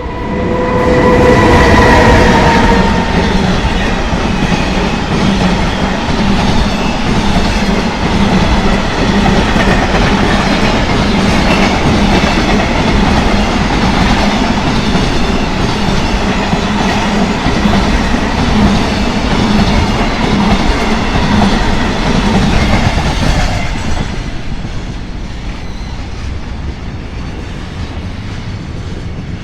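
Freight train passing at close range: a loud continuous rumble of wagon wheels on rail with clickety-clack, after a steady pitched tone in the first two or three seconds. The roar drops off sharply about 24 seconds in and a quieter rumble goes on.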